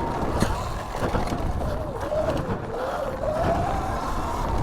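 2019 Sur-Ron electric dirt bike ridden flat out: a motor whine that drops in pitch about two seconds in, then climbs again as it speeds back up, over a low rumble of wind and tyres on dirt, with a few clicks and knocks.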